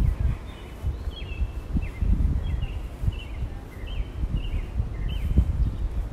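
A bird singing a run of short, high, down-slurred notes, repeated phrase after phrase, over a louder low rumble with a few dull thumps.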